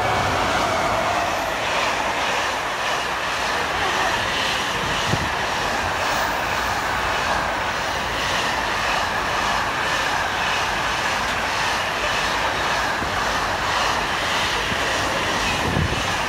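Freightliner container train, headed by two electric locomotives, passing at speed: a loud, steady rush and rumble of wheels on rail. It swells up just as the locomotives draw level, and a steady high tone and a faint regular beat from the wagons run through it.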